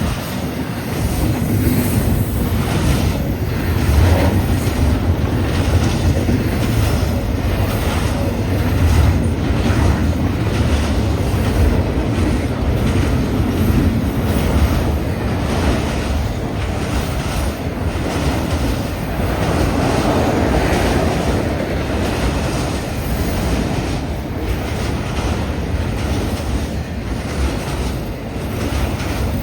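Long freight train rolling past at speed, its cars clattering steadily over the rails, under heavy wind buffeting the microphone.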